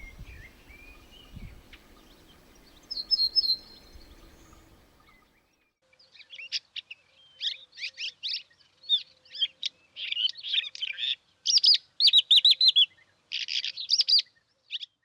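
A songbird singing a fast, scratchy run of high chattering notes, starting about six seconds in, after a single short chirp at about three seconds.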